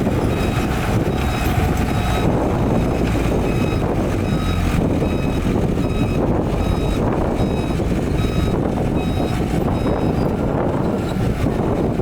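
Heavy diesel earthmoving machine running with its reversing alarm beeping at an even pace, over a dense engine rumble.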